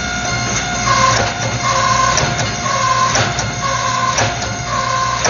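Hydraulic forging press running with a steady motor hum, and a pitched tone with sharp clicks repeating about once a second as the press cycles, drawing out a hot Damascus billet.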